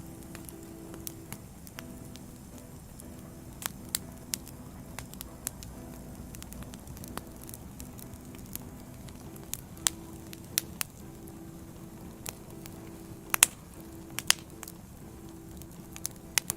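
Wood fire crackling, with irregular sharp pops of burning logs, the loudest two close together near the end, over a soft hiss. Low held tones of soft background music run underneath.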